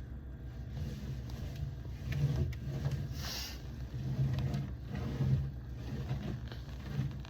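Irregular rubbing and handling noises from cleaning inside a refrigerator, over a low rumble, with one short hiss about three seconds in.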